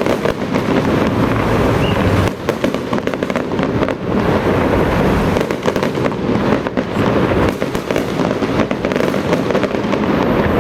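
Loud, rapid, continuous crackling of firecrackers going off in dense irregular volleys.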